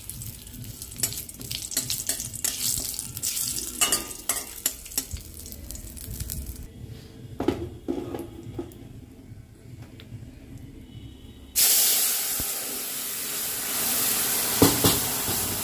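Whole cumin, dried red chillies and a bay leaf sizzling lightly in hot mustard oil in a kadai, with a few clicks. About twelve seconds in, a sudden loud hiss starts as boiled masoor dal with radish goes into the hot tempering and sizzles hard.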